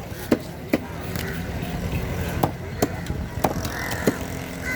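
A heavy knife chopping through fish on a chopping block: about six sharp strikes at uneven intervals over a steady low background hum.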